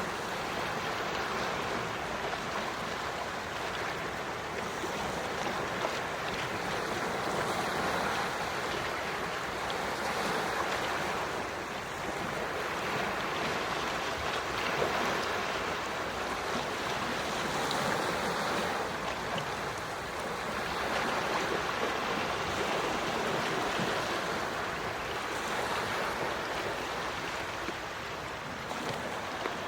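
Gentle sea waves washing onto the shore, a steady surf wash that swells and eases every few seconds.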